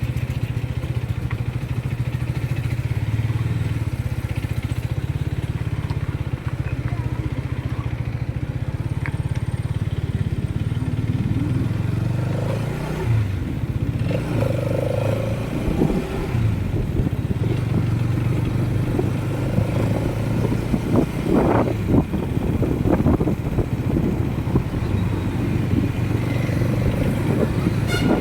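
Motorcycle engine running steadily while riding, with low wind rumble. The engine note shifts briefly around the middle, then settles back to a steady hum.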